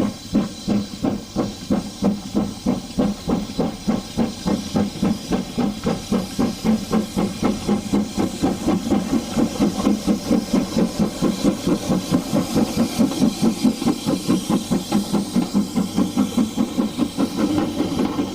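Steam locomotive exhaust beats, a regular chuff that quickens from about three to about five beats a second and grows louder as the engine gathers speed.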